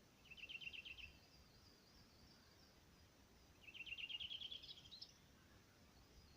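A songbird singing two rapid high trills, a short one near the start and a longer one about halfway through that ends in a rising flourish, with fainter bird chatter behind.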